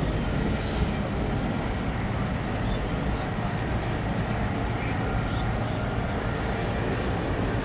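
Steady rumble of car engines running, with indistinct voices in the background.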